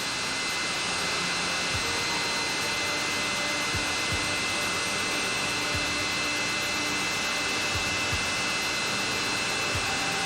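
Boeing 707 jet engines running: a steady rushing roar with a high-pitched whine held over it.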